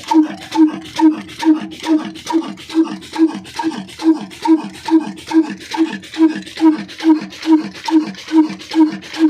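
Old Ruston-type 'black' diesel engine running at a slow, even beat of a little over two pulses a second, each pulse a short tone that drops in pitch.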